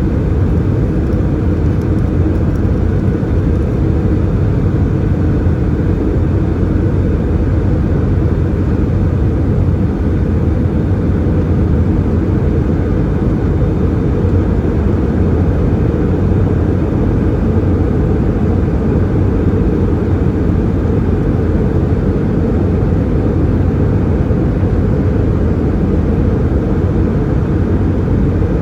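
Steady cabin rumble of an Airbus A320-214 from a window seat: the CFM56 engines and the airframe give an even, deep drone with a faint thin tone above it, unchanging throughout.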